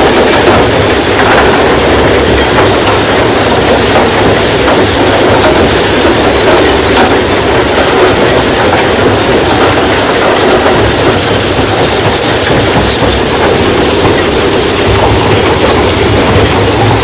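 Rock crushing machine running, with a loud, steady low rumble and a dense clatter of stone being broken and shaken through it.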